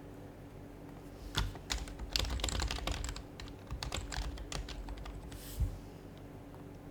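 Typing on an HHKB Professional HYBRID Type-S keyboard with its silenced Topre switches: a quick run of keystrokes lasting about four seconds, with one louder stroke near the end.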